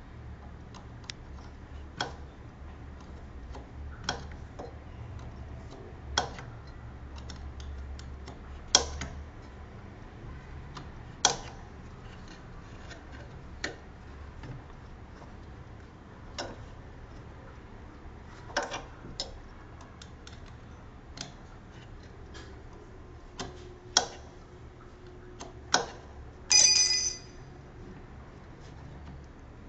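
Brastemp Clean washing machine running with a steady low hum, sharp clicks about every two seconds, and a short beep near the end.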